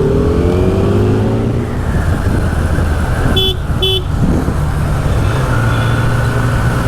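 Motorcycle riding at speed: the Kawasaki Z900's inline-four engine runs under steady wind and road noise, its pitch rising at first and then levelling off. About three and a half seconds in, a horn gives two short beeps.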